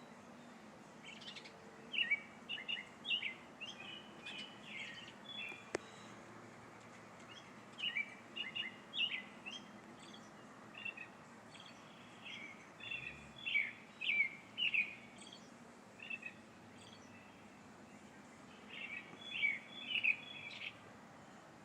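A songbird singing several phrases of short, quick notes, with pauses of a few seconds between phrases.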